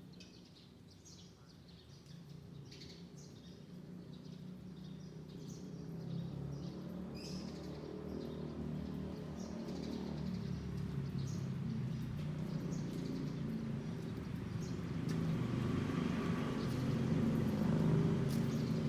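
Small birds chirping in short repeated calls, while a vehicle engine grows steadily louder as it approaches until its low rumble takes over in the second half.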